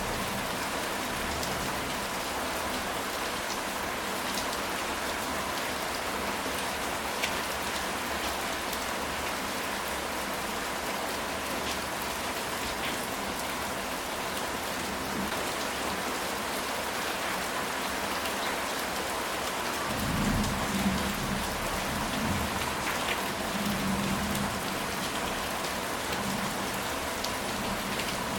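Steady rain falling on a ceramic tile roof, with scattered sharper drop ticks. A low rumble of thunder swells about twenty seconds in and fades over a few seconds.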